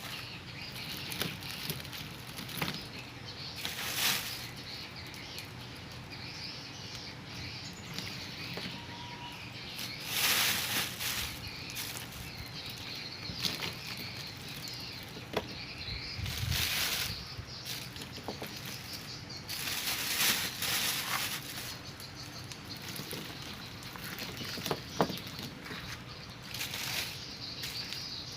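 Dry swiftlet nests being handled and sorted by hand: intermittent bursts of rustling with scattered light clicks.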